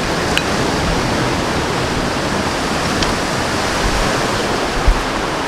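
Steady rushing noise of wind and nearby water, with a low thump near the end.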